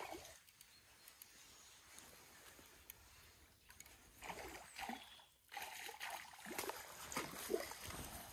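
Water splashing and sloshing as a hooked fish is brought up to the surface and landed, in short irregular bursts starting about halfway through.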